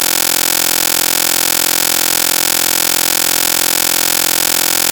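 A loud, steady electronic buzz made of many fixed tones, holding unchanged throughout.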